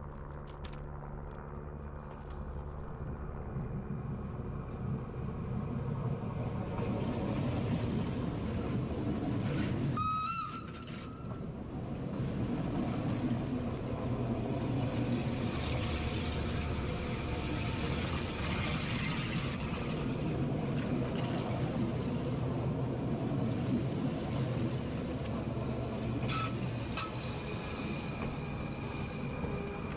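Rhaetian Railway electric multiple-unit train rolling slowly past: a steady low rumble with wheel and rail noise that builds over the first several seconds. A short high-pitched squeal comes about ten seconds in, and a fainter one near the end.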